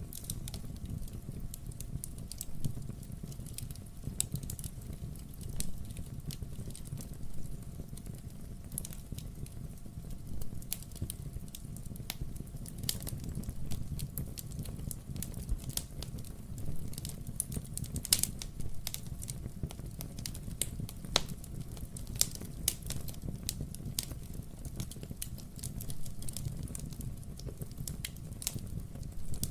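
Wood fire burning in a fireplace: a steady low rumble with frequent irregular crackles and sharp pops of burning logs, a few standing out louder.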